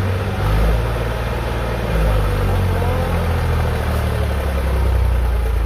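Diesel tractor engine running steadily with a deep, low drone, rising in level slightly a little after the start and again about two seconds in.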